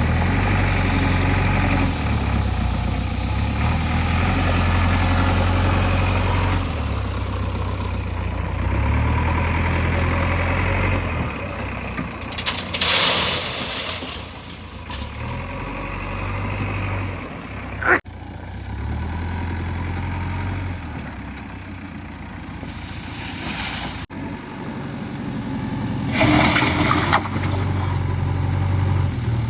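Diesel engine of a working JCB 3DX backhoe loader running, its level rising and falling under load. A short rushing noise comes about halfway through and again near the end.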